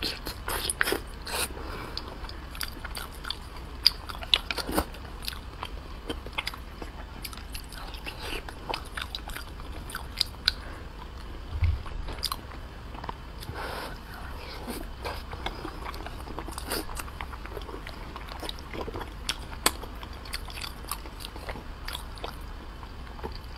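Close-miked biting and chewing of soft, fatty braised pork, with many short, wet mouth clicks and one low thump about halfway through.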